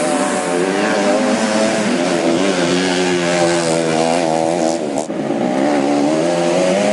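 Motocross dirt bike engines racing, their pitch rising and falling as riders work the throttle, with a brief drop about five seconds in.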